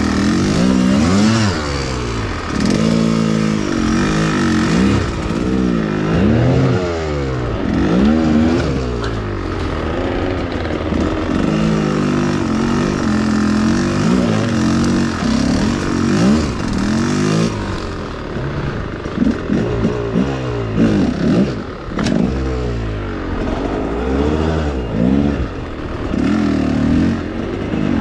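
Enduro motorcycle engine revving up and down over and over, as when riding slowly up rough ground. There is some clattering and a few knocks in the second half.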